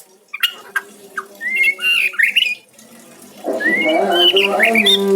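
White-rumped shama (murai batu) singing: short whistled notes sliding up and down, mixed with sharp chips. From about three and a half seconds in, a steady low humming tone with overtones sounds under the song.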